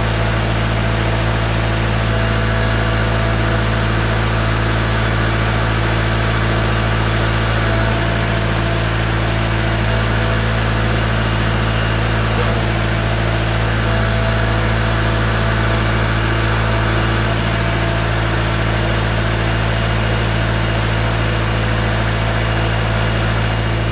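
Kubota L4701 compact tractor's diesel engine idling steadily, with no revving or change in speed.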